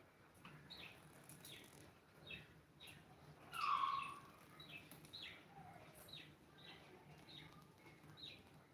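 A bird chirping repeatedly in short, falling chirps, with one louder call about three and a half seconds in.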